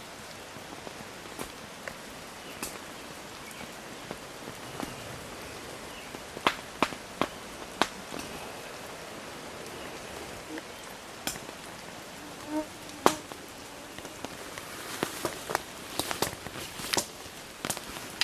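Steady rain hiss with scattered sharp drips and taps, which come more often near the end.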